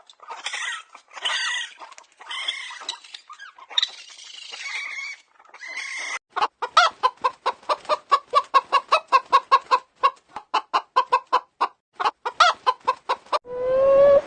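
Chickens clucking: first several harsh squawking calls, then, about six seconds in, a quick run of short clucks at about five a second.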